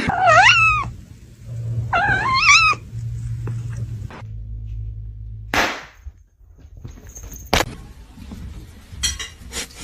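A cat meowing twice, about two seconds apart, each meow bending up and then down in pitch. Later come a short noisy burst and a sharp click.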